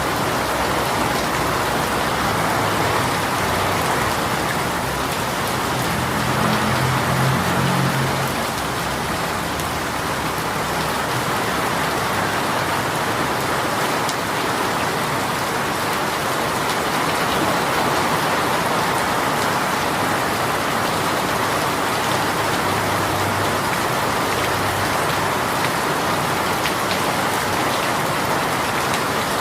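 Heavy rain shower pouring steadily onto surfaces, an even hiss of rain. A faint low rumble rises briefly about seven seconds in.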